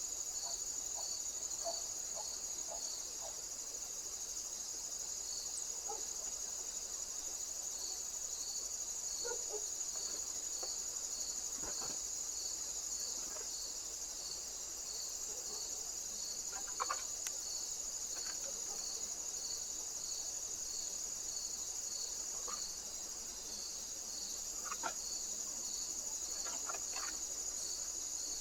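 Crickets chirping: a steady high trill with a regular pulsed chirp about twice a second underneath, and a few faint short calls scattered through.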